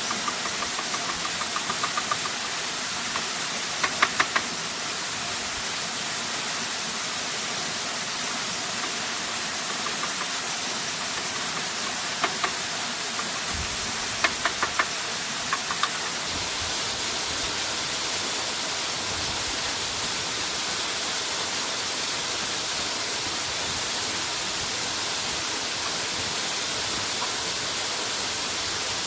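Steady rushing of a waterfall, with a few sharp knocks in small groups: three about four seconds in, and several more between twelve and sixteen seconds in.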